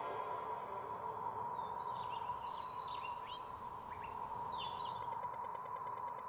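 Small birds chirping, a scatter of short quick calls between about one and a half and five seconds in, over a steady hum.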